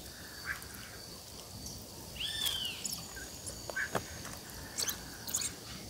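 A bird gives one short arched call about two seconds in, over a faint outdoor background. A few sharp clicks follow in the second half.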